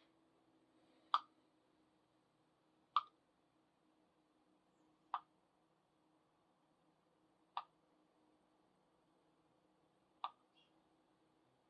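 Five sharp, alike clicks or taps, spaced about two to three seconds apart, over a faint steady hum.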